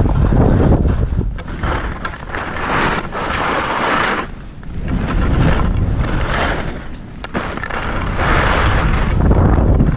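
Skis scraping over icy, hard-packed snow through a series of turns, each turn a swelling hiss that fades, about every one and a half to two seconds. Wind buffets the microphone throughout.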